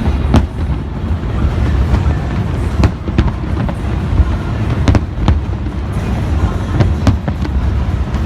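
Fireworks display going off: a continuous low rumble with a dozen or so sharp shell bursts and crackles at irregular intervals.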